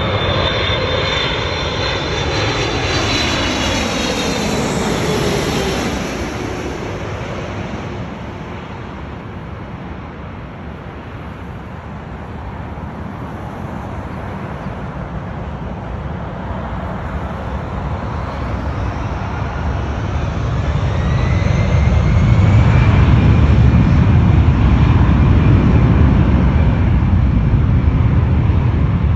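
Boeing 777-300ER's GE90 jet engines passing close by, the roar and whine falling in pitch and fading over the first few seconds. The engine noise then builds again with a rising whine to its loudest deep roar about three-quarters of the way through.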